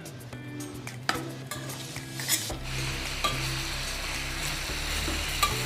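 Chicken wings sizzling as they sauté in a pan of caramelized sugar, stirred with a spoon that clicks against the pan a few times. The sizzle grows louder about two and a half seconds in.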